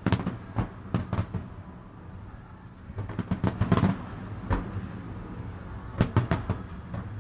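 Fireworks going off as sharp bangs and crackles in clusters: several near the start, a quick run about three seconds in, and a couple more about six seconds in, over a low steady rumble.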